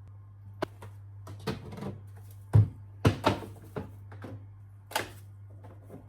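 Scattered knocks and clicks of kitchen items being handled, the loudest two about two and a half and three seconds in, over a steady low hum.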